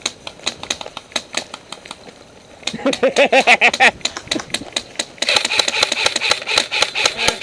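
Airsoft electric guns firing full-auto: a burst of about a second, then a longer burst of about two seconds near the end. Each burst is a fast mechanical rattle with a buzzing gearbox cycle. Scattered single sharp clicks come before them.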